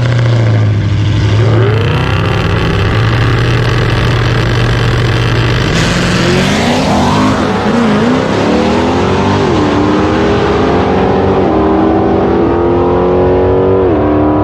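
Street car's engine at a drag strip, running at a steady note, then launching about six seconds in and accelerating hard, its pitch climbing and dropping back at about three gear shifts.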